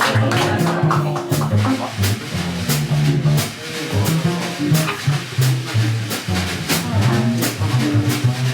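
A live jazz combo playing, with a drum kit keeping time on regular cymbal strokes over a line of low notes stepping steadily.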